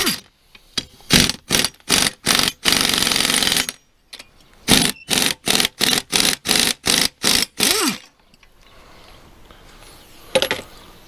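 Impact wrench hammering in short bursts on the mower deck's blade bolts. First comes a string of short bursts and one longer run, then about ten quick bursts in a row, ending as the motor winds down with a falling whine. A single knock follows near the end.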